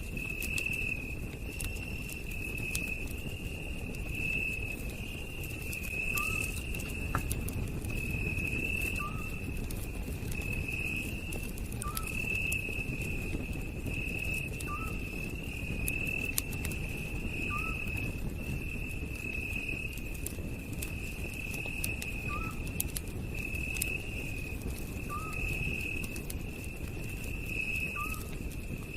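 Campfire crackling and popping under a low rumble, with night insects keeping up a continuous high, pulsing trill. A short rising chirp repeats about every three seconds.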